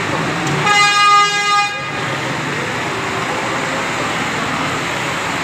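Truck horn blown once for about a second, starting just under a second in, over steady engine and road noise.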